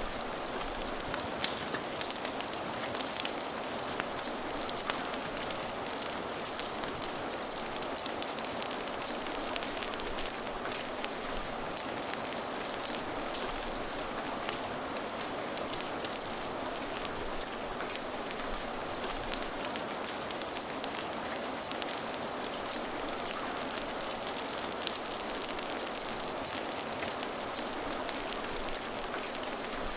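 Steady rain mixed with a crackling fire: an even patter of rain under scattered small pops and snaps, with a few louder pops in the first five seconds.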